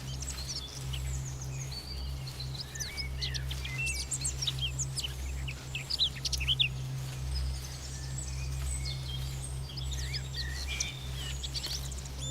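Several small songbirds chirping and trilling in quick, overlapping calls, busiest in the middle and again near the end, over a low steady hum.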